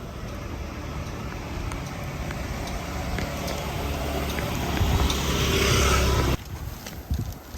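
Road vehicle noise growing louder as it approaches, then cut off suddenly about six seconds in.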